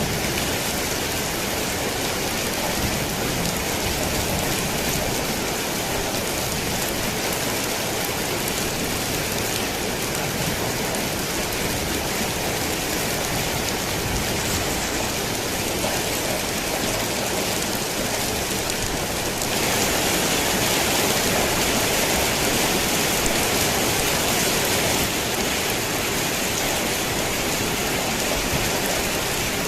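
Steady rain pattering on a tin roof, a dense even hiss. It grows louder and brighter for about five seconds, two-thirds of the way through, then settles back.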